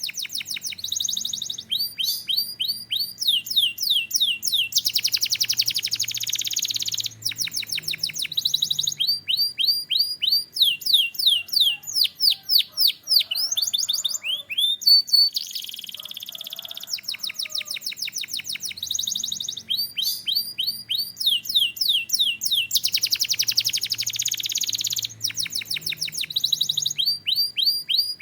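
Domestic canary singing a continuous song of high, fast trills and rolls, each phrase a rapid run of repeated sweeping notes that changes to a new phrase every second or two.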